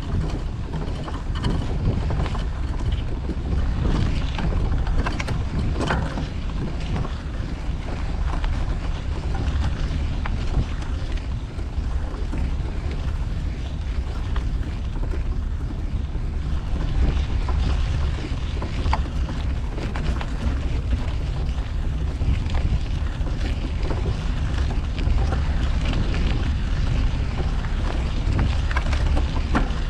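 Wind rumbling on the microphone of a moving bicycle, over steady city street traffic noise, with a few scattered clicks.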